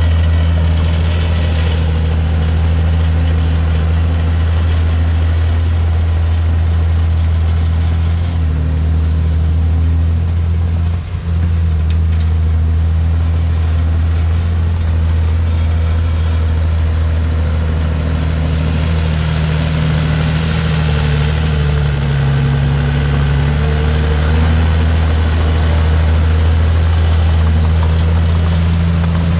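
Komatsu D51PX bulldozer's diesel engine running steadily with a deep, even drone; its pitch wavers briefly about two-thirds of the way through as engine speed shifts.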